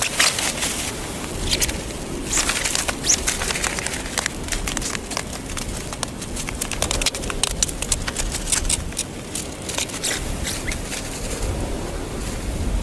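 Irregular sharp clicks and short scraping, crackling sounds of close-up handwork, over a low rumble.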